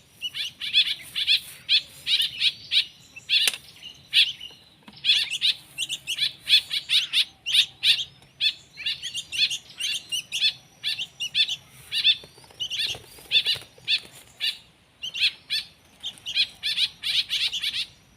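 Hand-reared baby songbirds begging for food with rapid, repeated high chirps, several a second and without a break.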